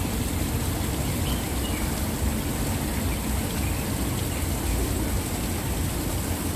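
Waterfall rushing steadily, an even, full roar of falling water.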